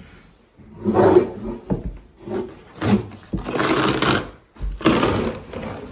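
Carpet being torn up from the floor with a pry bar: several noisy ripping pulls, each half a second to a second long, as the nailed-down carpet, laid without padding, comes loose.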